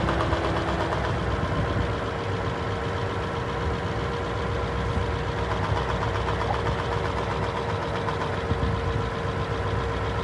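Toyota Land Cruiser 200 engine idling steadily with the noise that the owner puts down to its manifold, the fault that the manifold repair is meant to cure. A faint steady whine runs under it from about a second and a half in.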